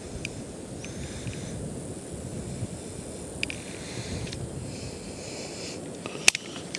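Rainforest ambience: a steady rushing of wind and rustling, with high-pitched animal calls coming and going about a second in, and again through the middle. A single sharp click sounds near the end.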